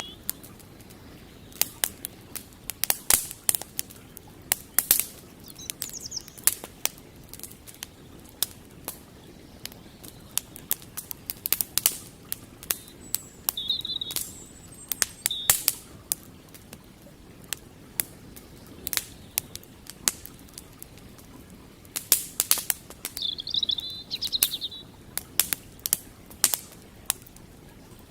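Campfire crackling with many sharp pops, some in quick clusters, over a steady low rush of river water. A small bird chirps in short trills a few times.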